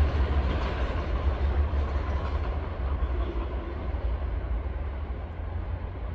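Passenger train hauled by a GM diesel locomotive rumbling past, with a strong low engine drone; the sound slowly fades as the train moves away.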